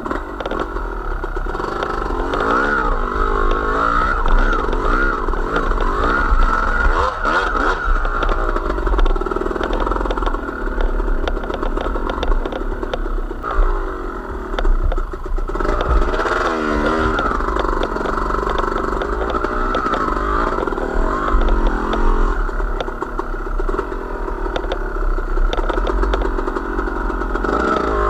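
A small vehicle engine running under changing throttle, its pitch rising and falling again and again as it is ridden, over a steady low rumble.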